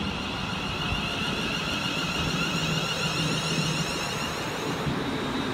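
London Midland class 350 Desiro electric multiple unit at the platform, giving a steady high electrical whine with a low hum underneath.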